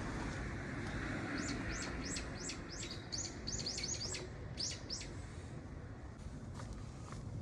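A small bird chirping a quick run of short, high notes that each slide downward, about three a second, from about a second in until about five seconds in. Under it is a steady hiss of rain, and a passing vehicle fades away at the start.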